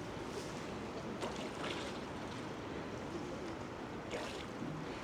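Steady wash of noise from a rain-soaked street, with a few short hissing swells about a second in, near two seconds and just after four seconds.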